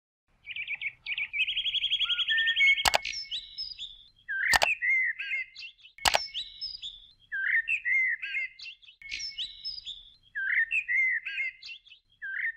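Birds chirping: a fast trill starting about a second in, then short warbling chirps repeating about every second. Three sharp clicks about a second and a half apart, as of a cursor clicking on-screen buttons, fall in the first half.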